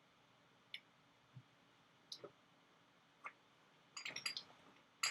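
Scattered light clicks and knocks of kitchen containers being moved while someone rummages for a spice, a few single clicks spread out and then a quick cluster of clicking near the end.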